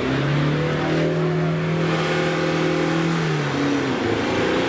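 Off-road 4x4 engine revving at a steady high pitch for about three and a half seconds, then dropping off.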